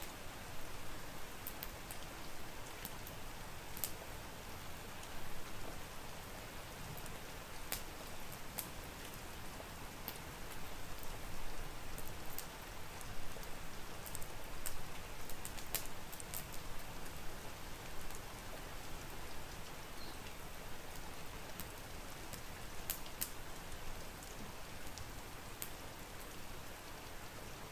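Steady rain, with scattered sharp crackles and pops from a wood fire in a fireplace.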